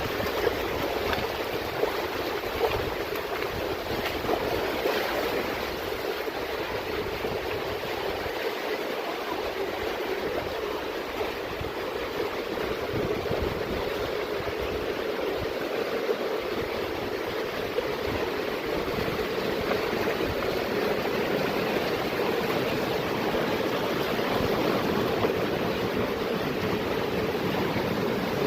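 Mountain stream flowing, a steady rush of water over rocks that holds unbroken throughout.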